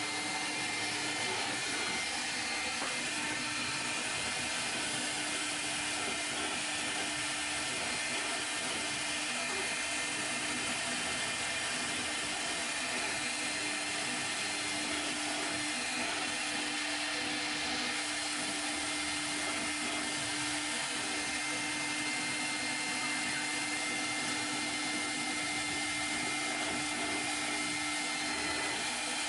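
CNC spindle motor running steadily through a cake, a constant high whine over a steady hum, churning the frosting rather than carving it.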